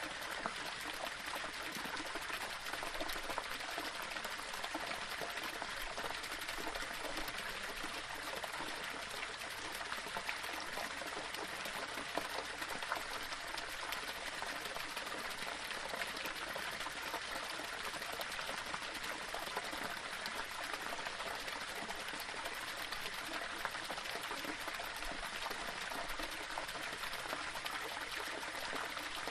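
Small waterfall splashing and trickling over stones, a steady rush of running water.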